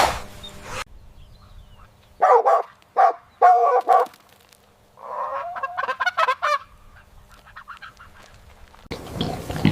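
Farm birds calling: four short, loud pitched calls, then a quicker run of calls a second or so later. A denser, noisier animal sound starts near the end.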